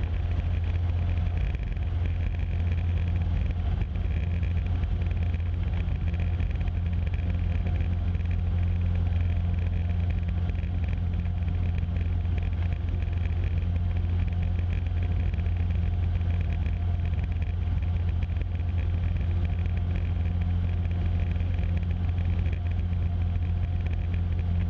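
Cessna 150's four-cylinder Continental O-200 engine and propeller running at full take-off power, a steady unchanging drone, heard through the aircraft's intercom audio.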